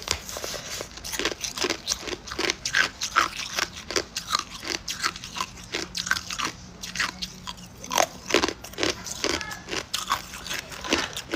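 Hard ice cubes being bitten and chewed, with rapid, irregular sharp crunches and cracks several times a second.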